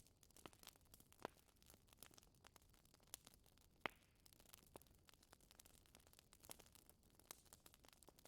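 Wood fire crackling in a fireplace: faint, irregular pops and snaps, the sharpest about four seconds in.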